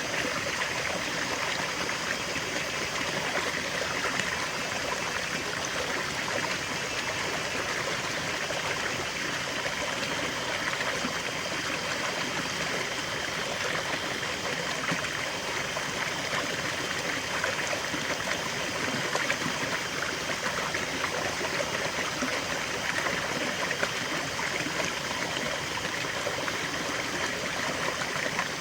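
River water flowing steadily over stones, a continuous rushing babble with fine trickling detail.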